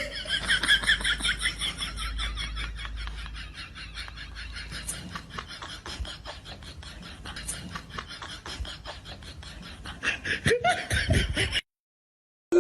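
A person laughing in a long run of quick, even pulses, loudest at first and then fading. It breaks off suddenly near the end after a louder burst of voice.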